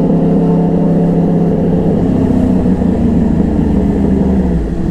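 Yamaha R1 crossplane's inline-four engine running at steady revs while riding, through its stock exhaust, the pitch easing slightly near the end.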